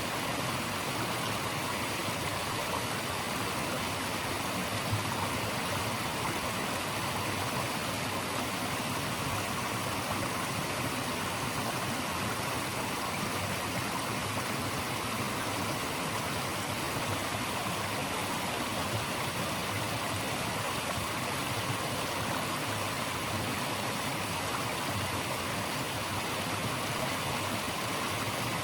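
Steady rush of flowing water from a stream, an even hiss without change.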